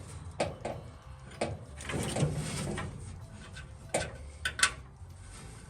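Scattered clicks and knocks of hand tools and small metal parts being handled, with a short scraping rustle about two seconds in and two sharp clicks near the end.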